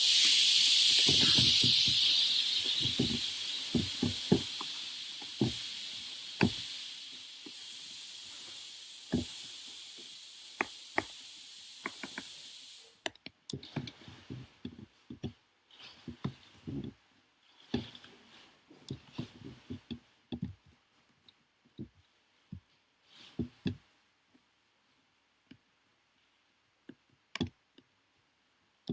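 A loud hiss that sets in suddenly, fades steadily for about thirteen seconds and then cuts off abruptly, with scattered light knocks and clicks throughout.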